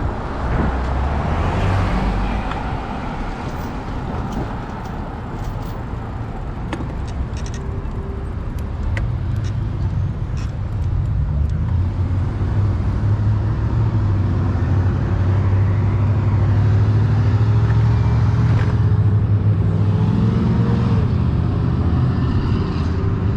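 A vehicle's engine and road noise heard while under way. The engine note climbs slowly through the middle, as if gathering speed, then falls away near the end, with light clicks scattered through the first half.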